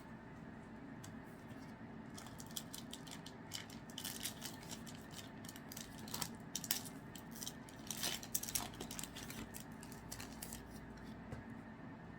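Trading cards being handled and flipped through: irregular small crisp clicks and rustles of card stock, coming thicker in the middle.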